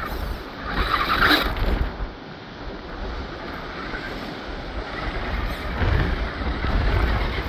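Strong wind buffeting the microphone in gusts, with a louder rushing gust about a second in and another near the end.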